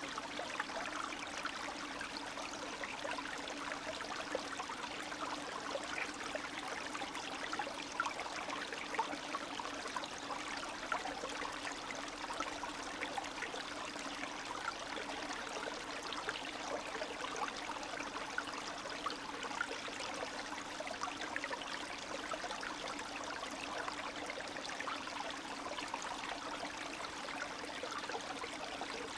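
A small spring stream of meltwater running and trickling steadily, with a dense patter of small gurgles and splashes over a constant rush.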